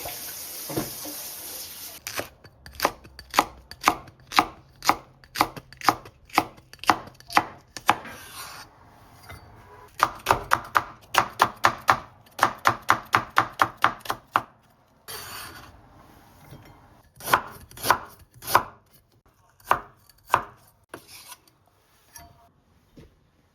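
Knife chopping on a cutting board: steady strokes about two a second, then a faster run of quick chops, then a few scattered ones. Running water hisses for the first couple of seconds.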